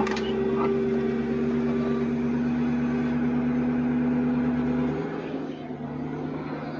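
Hydraulic system of a Ford F450 recovery truck's spec lift (underlift) running under load as the control levers are worked: a steady whine over the truck's engine hum, which eases off suddenly about five seconds in when the lever is released, leaving the engine running.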